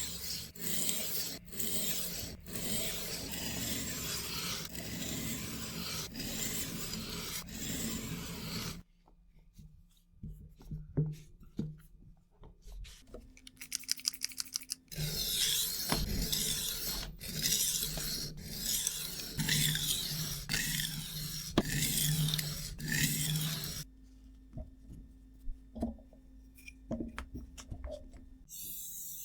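Steel blade of an 8-inch chef knife being sharpened: repeated rasping strokes across an abrasive, about one a second, in two spells with a quieter stretch of light clicks and scrapes between them.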